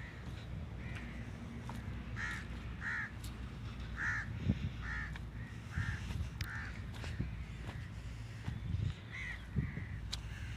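A bird calling over and over in short, pitched calls, about ten of them at uneven intervals, over a low steady rumble.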